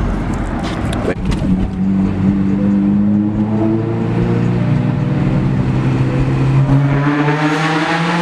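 Car engine running, its drone climbing slowly in pitch as it pulls, with a rougher, brighter exhaust note near the end.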